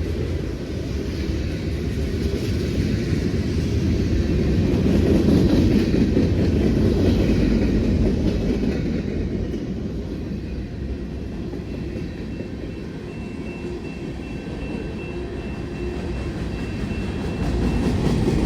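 CSX mixed freight train's railcars rolling past, wheels and trucks rumbling and clattering over the rails. The sound is loudest about five seconds in and eases off after that. A faint high steady tone runs for a few seconds near the end.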